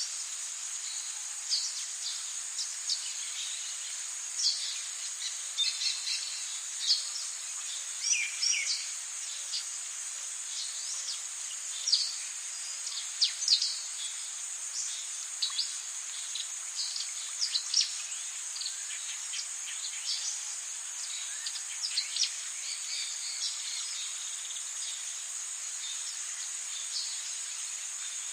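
Rainforest ambience: a steady high-pitched insect drone under many short bird chirps and calls, scattered throughout and busiest in the middle.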